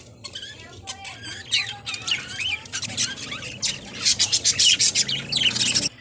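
Aviary birds squawking and chirping: many short, harsh calls that bend quickly up and down in pitch, coming thicker in the second half.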